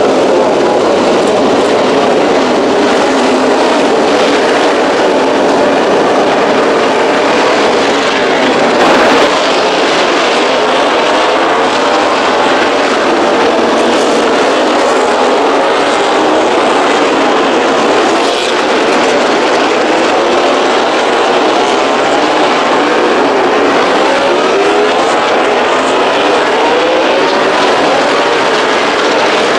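Many MotoGP racing motorcycles running at high revs together, their engines overlapping in one continuous loud din, with many rising pitch sweeps as they accelerate.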